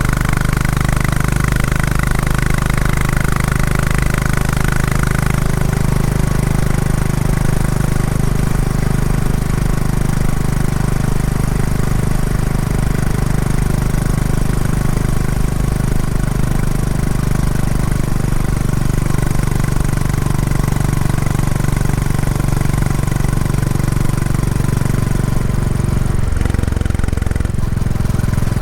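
Royal Enfield Classic 350's single-cylinder engine running through its stock exhaust while the motorcycle is ridden, a steady low note during a running-in ride. The engine note dips briefly near the end.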